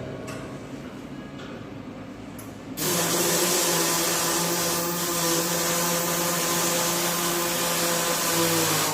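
Welding on a vehicle chassis frame: a steady hiss with an underlying hum that starts abruptly about three seconds in and stops sharply about six seconds later, one continuous weld run.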